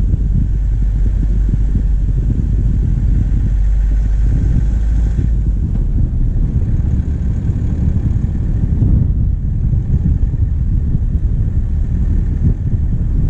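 Diesel engine of a vehicle running on the move, picked up by a bonnet-mounted microphone as a heavy low rumble. A fainter hiss over it drops away about five seconds in and again about nine seconds in.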